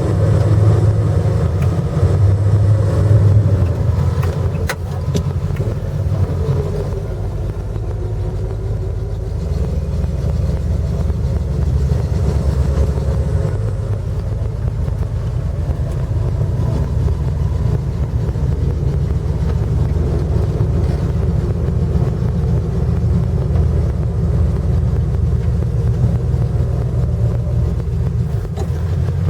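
Off-road 4x4 truck's engine running steadily with a low rumble.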